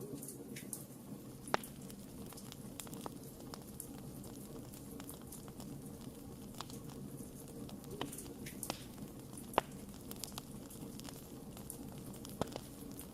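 Wood fire burning, a steady low hiss broken by scattered sharp crackles and pops, three louder pops standing out about a second and a half in, near ten seconds, and near the end.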